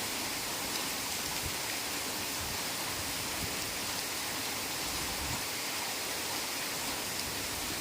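Heavy rain falling steadily, an even hiss of many drops with a few soft low thumps.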